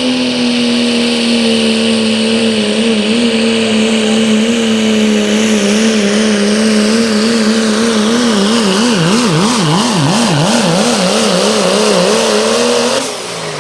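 Engine of a pulling truck or tractor running flat out under the sled's load, holding a steady high pitch. From about eight seconds in the pitch wavers quickly up and down, and the engine drops off sharply near the end as the throttle is let off.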